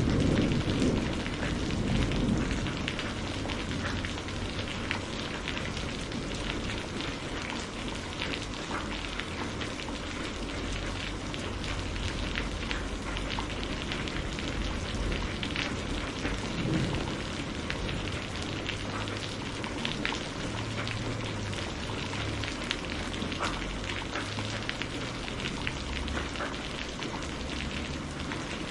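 Steady rain falling, a dense patter of drops on a surface. The last of a thunder rumble dies away in the first couple of seconds.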